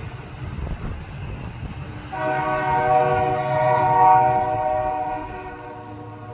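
Diesel locomotive air horn sounding one long blast, starting about two seconds in and fading near the end, over the low rumble of the approaching train.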